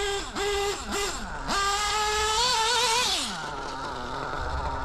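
LRP .28 (4.6 cc) nitro engine with a Hobeo carburettor being revved: three quick throttle blips, then held at high revs for about a second and a half before dropping back to a low, steady idle about three seconds in. It is on its 11th break-in tank, tuned very rich.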